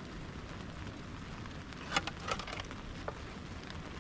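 Steady hiss of rain falling, with a quick cluster of sharp cracks about two seconds in and one more just after three seconds.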